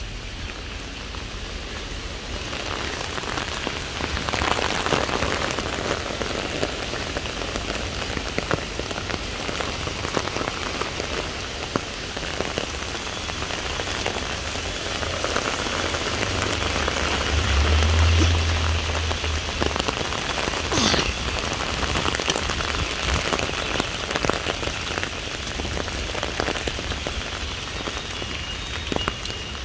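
Heavy rain falling steadily, with a low rumble swelling briefly a little past halfway through.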